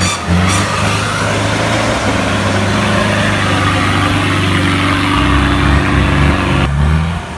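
A vehicle engine running steadily, with its low hum shifting in pitch about five seconds in and again near the end.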